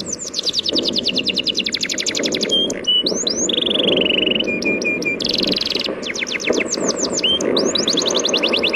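Small birds chirping in quick runs of downward-sweeping notes with a few short whistles, over a steady wash of sea waves.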